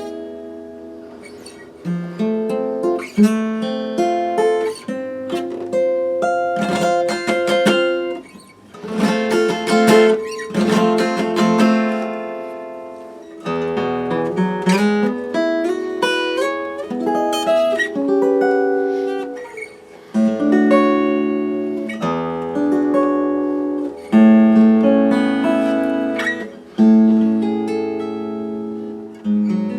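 Steel-string acoustic guitar played: chords strummed and picked with ringing bass notes and rich overtones, changing every second or two.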